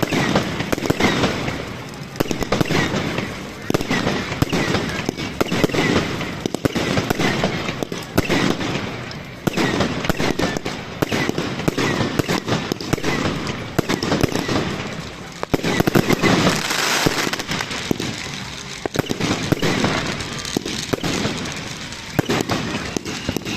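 Fireworks going off without a break: many overlapping bangs and crackles following one another throughout.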